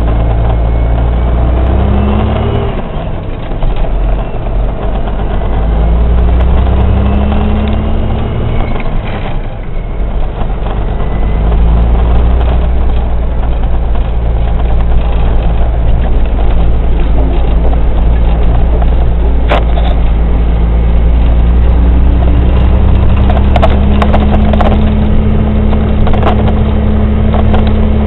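Kenworth water truck's diesel engine pulling through the gears: the engine note climbs, drops briefly at a shift about three seconds in, climbs again, drops at a second shift near ten seconds, then holds a long, slowly rising pull.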